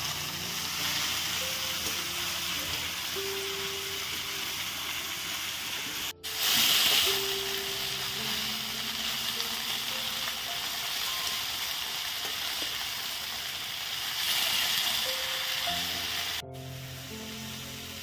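Food frying in hot oil in a pan, a steady sizzle that swells louder for a moment about seven seconds in and again around fifteen seconds, over background music.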